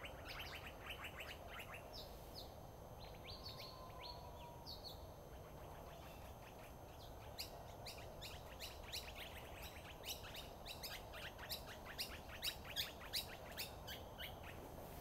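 Birds chirping in quick series of short, high notes, growing busier about halfway through, over a faint steady background hum.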